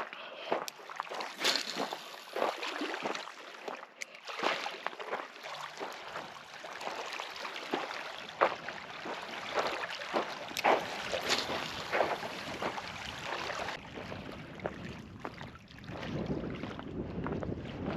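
Footsteps crunching over a rocky lakeshore, irregular steps about every half second to a second, with gusts of wind buffeting the microphone near the end.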